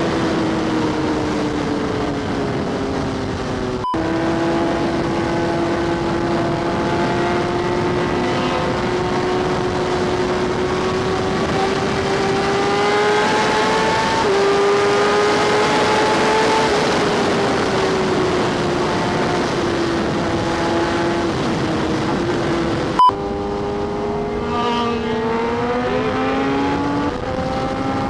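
Superbike engine running at a steady cruising speed, its pitch drifting slowly up and down, under a broad rush of wind noise. The sound breaks off abruptly twice and picks up again at a slightly different pitch.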